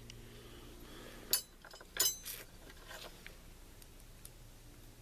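Metal parts clinking against each other: two sharp clinks with a short metallic ring, about two-thirds of a second apart, then a few lighter ticks.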